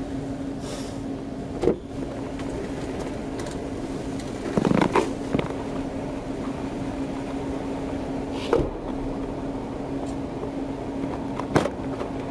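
Steady hum inside a vehicle cabin, with one constant low tone, broken by a few short knocks about every three seconds.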